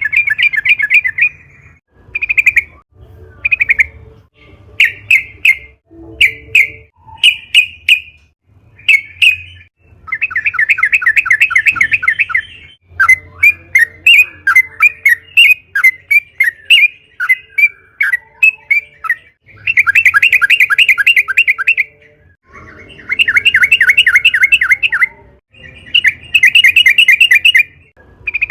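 Yellow-vented bulbul (trucukan) singing vigorously: short bubbly phrases alternate with long rapid rolling trills of about two seconds each, with a stretch of varied chattering in the middle.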